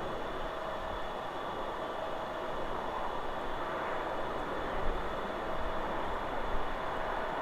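Steady rushing of wind through forest trees, with low rumbling gusts on the microphone in the second half.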